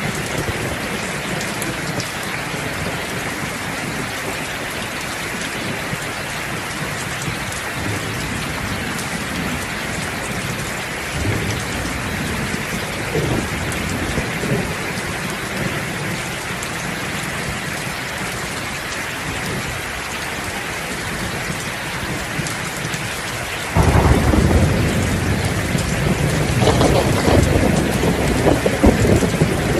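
Steady rain falling, with faint low rumbles of distant thunder about halfway through. Near the end a sudden loud crash of thunder breaks in and keeps rumbling, swelling again a few seconds later.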